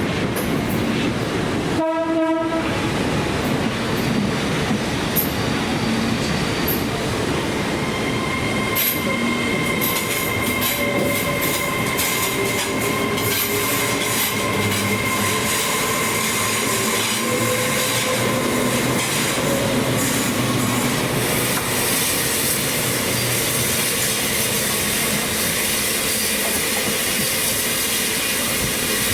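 A train running along the rails, with a short horn blast about two seconds in and a steady high wheel squeal through the middle.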